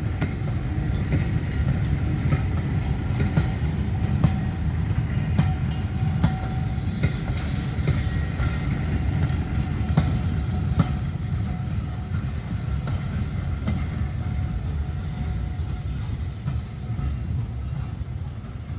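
Steam-hauled heritage train running steadily along the track, a continuous low rumble with scattered sharp clicks from the wheels over the rails.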